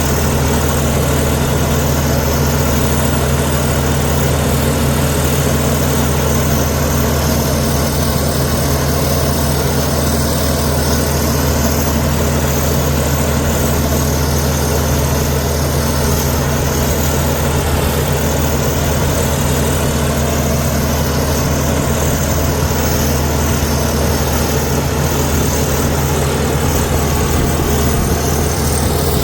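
Heavy diesel engine of earthmoving machinery running at a steady speed, its note holding constant in pitch and loudness.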